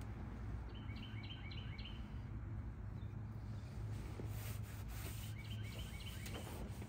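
A small songbird sings twice over a steady low background rumble, each song a quick run of about six short chirps. A few faint clicks and rustles from the rag being wiped over the dashboard come in the second half.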